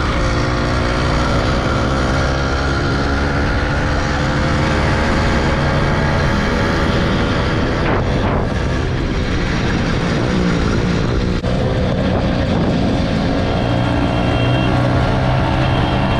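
Small gas motorbike engine running under way, its pitch dipping and rising again about halfway through as the throttle changes, over heavy low rumble from the ride.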